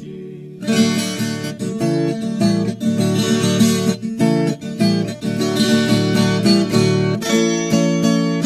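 Instrumental break of a Brazilian country song: acoustic guitars strumming and picking a melody, starting about half a second in.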